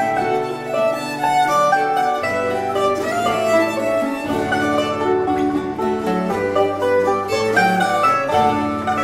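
Early baroque chamber music played live by mandolin, mandocello, treble viol and harpsichord: quick plucked and bowed melody lines over a sustained bass that moves every second or two.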